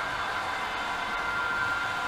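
Märklin Mikado model locomotive and its train of cars running on model track: a steady rolling rumble with a thin, even motor whine.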